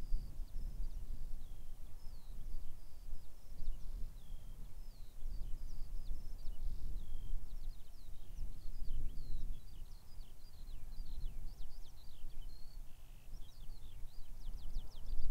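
Several small birds singing and chirping in quick, overlapping phrases, over a steady low rumble.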